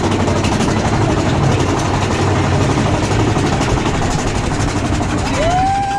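Mine-train roller coaster running along its track: a loud, steady rattling clatter over a low rumble. A steady high tone starts near the end.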